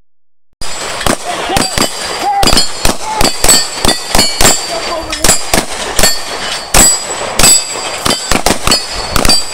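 Rapid, irregular gunfire from several shooters on a firing line, dozens of shots overlapping, with a high metallic ringing that hangs between them. It starts abruptly about half a second in.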